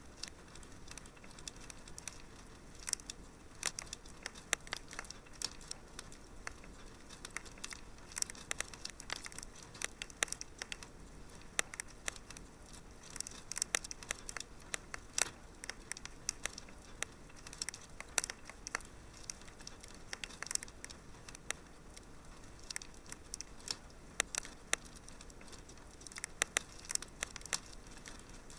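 Wood fire burning in a fireplace: a steady low hiss with irregular sharp crackles and pops, several close together at times.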